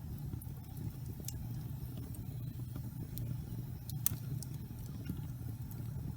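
Wood fire burning in a fireplace: a steady low rumble of flames with scattered sharp crackles and pops from the logs, the loudest pop about four seconds in.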